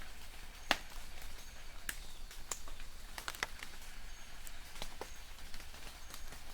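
Light rain in a forest: drops pattering irregularly on leaves, with sharp individual drips scattered throughout and one louder drip about a second in. Faint, short, high bird chirps come through now and then.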